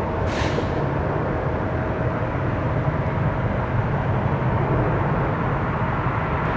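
Mitsubishi CRJ-900 regional jet's twin GE CF34 turbofans running at takeoff power as it climbs out: a steady low rumble with a steady whine running through it, and a short hiss about half a second in.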